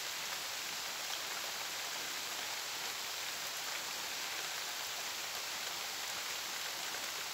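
Steady rain falling on the foliage of fruit trees, an even hiss that holds level without breaks.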